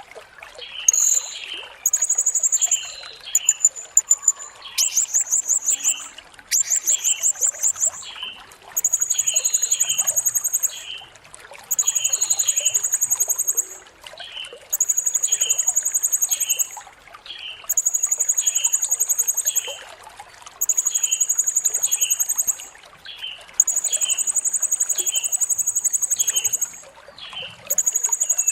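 Blue-crowned hanging parrot (serindit) calling: a series of shrill, very high notes, each held for a second or two and repeated every two to three seconds, with short chirps in between. Under them runs a faint trickle of water.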